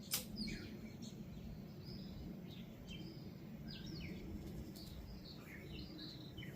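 Small birds chirping and calling in many short notes over a steady low background hum, with one sharp click just after the start.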